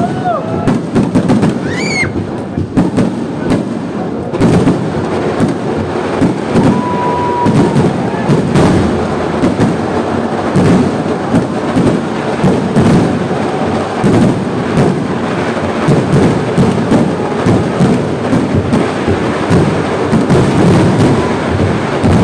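Dense, continuous fireworks barrage: rapid cracks and booms from firecrackers and aerial shells merging into a heavy rolling rumble. A rising whistle sounds about two seconds in.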